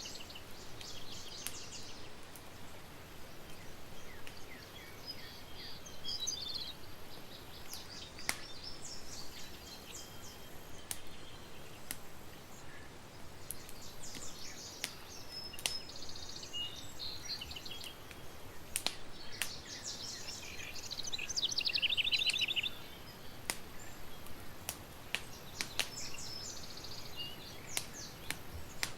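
Campfire crackling, with scattered sharp pops over a steady hiss, while birds chirp and trill; a fast bird trill about three-quarters of the way through is the loudest sound.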